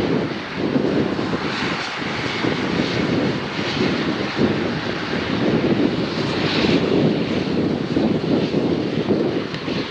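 Steady, wavering rushing noise with no clear pitch, heaviest in the low-mid range.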